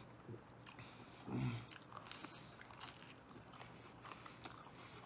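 A man chewing a mouthful of deep dish pizza with mouth open: faint wet clicks and smacks, and one short, louder low throat sound about a second and a half in.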